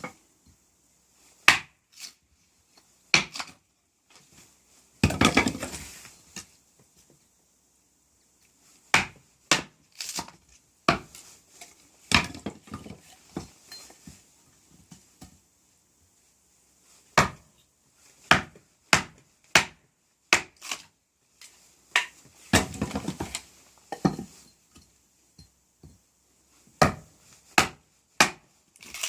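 Small hatchet tapping into small sticks of firewood: sharp wooden knocks at irregular intervals, with two longer rough, cracking stretches of about a second as the wood is twisted and split apart for kindling.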